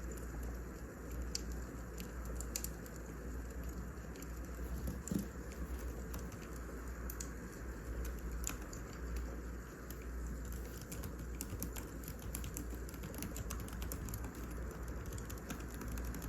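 Wood fire crackling: irregular sharp pops and ticks, thicker in the second half, over a steady low rumble.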